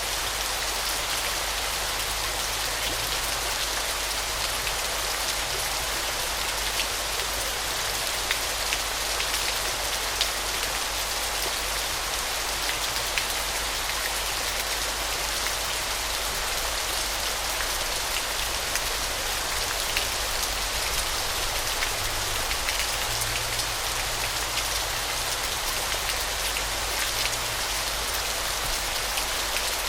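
Waterfall: a steady rush of falling water with a constant patter of splashing drops.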